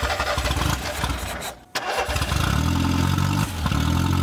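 An old Ford's carburetted petrol engine is cranked and fires, cuts out briefly about a second and a half in, then runs unevenly in two surges as the throttle is worked by hand at the carburettor. With the choke removed it will not keep running.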